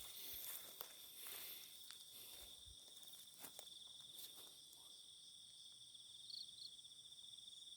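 A steady, high, pulsing chorus of crickets or other night insects. A few faint rustles and clicks come in the first few seconds.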